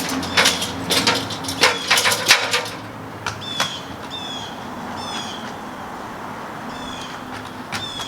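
A quick run of knocks and clatter for about the first three seconds, then a bird calling a short, high, slightly falling chirp about once a second.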